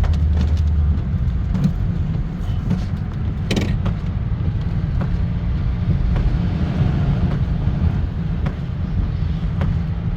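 Light rain with scattered taps of drops over a steady low rumble. The rumble is most likely traffic or a running vehicle.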